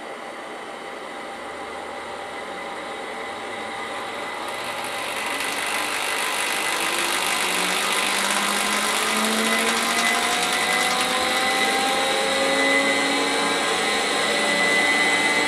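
Quantel Paintbox hard drive spinning up: a whirr that builds over the first several seconds and then holds, with a whine slowly rising in pitch as the platters come up to speed.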